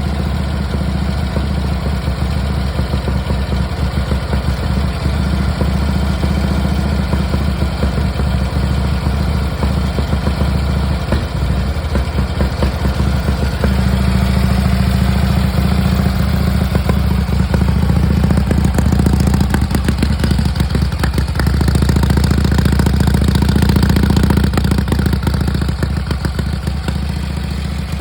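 Indian 741B military motorcycle's side-valve V-twin engine idling steadily as it warms up after a cold start in frost. The engine speed picks up a little about halfway through and again later, then settles back near the end.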